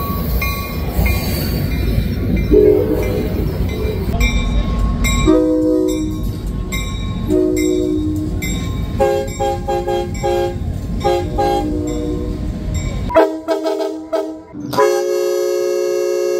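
Train running past with a low rumble while its multi-tone horn sounds a series of short blasts, then a long sustained blast near the end as the rumble fades out.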